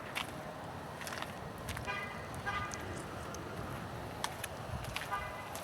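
Short pitched toots, a pair about two seconds in and another near the end, over a low steady outdoor rumble with scattered sharp clicks.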